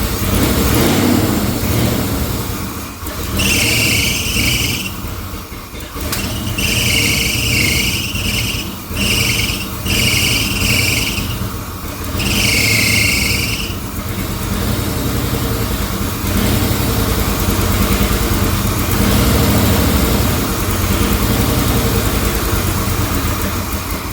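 1984 Chevrolet K20's gasoline V8 running with no exhaust fitted and the valve covers off, super loud. A shrill squeal cuts in five times, each for about a second, in the first half.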